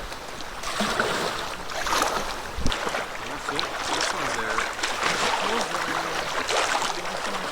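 Water splashing and lapping around a canoe on a choppy lake, with a sharp knock about two and a half seconds in.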